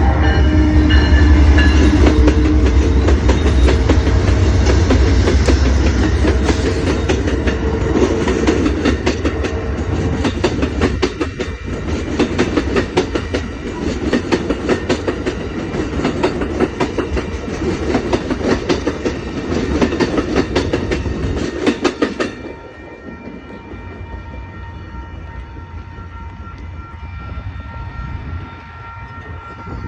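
Amtrak California Zephyr passenger train passing close by: the tail of a horn blast fades in the first couple of seconds over the low rumble of the diesel locomotives, then a fast, steady clickety-clack of wheels over rail joints as the cars go by. The clatter stops suddenly about 22 seconds in as the last car passes, leaving a quieter fading rumble.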